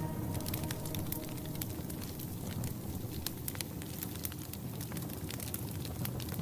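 Wood campfire crackling, with frequent irregular sharp snaps and pops over a steady noisy hiss of the fire.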